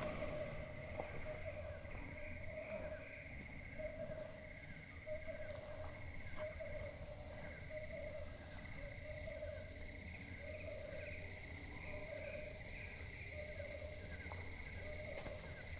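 Faint outdoor evening ambience with a repeating animal call: short trilled phrases about once a second, at a low and a high pitch together, over a low rumble.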